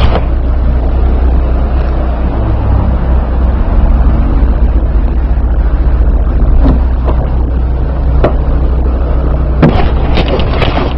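Steady low rumble of a vehicle on the move, heard from inside, with a few sharp clicks and knocks.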